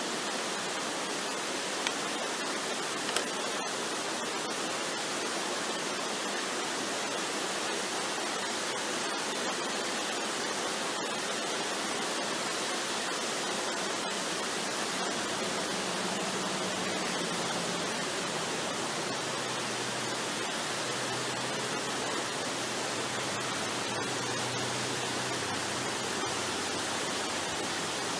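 Waterfall rushing steadily, an even dense roar of falling water, with two short sharp clicks in the first few seconds.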